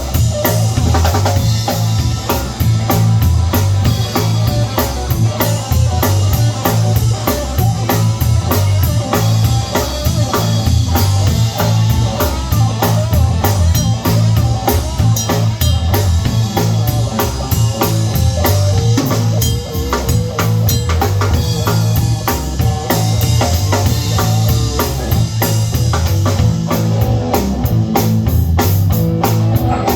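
Live blues band playing an instrumental passage: a drum kit keeps a steady beat of kick, snare and rimshot hits over a heavy bass line, with melodic instrument lines above.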